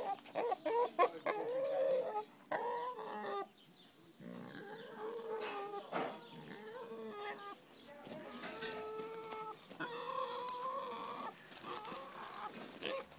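Vietnamese pot-bellied pig imitating a hen's clucking with a run of hen-like calls: quick broken clucks first, then a short pause, then longer drawn-out calls.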